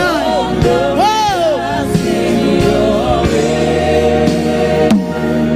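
Live gospel worship music with singing. About a second in, a voice sweeps up and down in a vocal run over sustained music.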